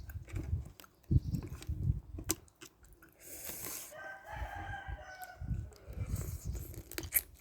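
Close-mic chewing and eating noises, with one rooster crow in the background about four seconds in, lasting about a second and a half.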